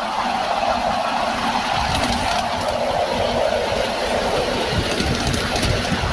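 Miniature railway train running along the track: a steady rumble and rattle of wheels on rails, with a few sharper clicks.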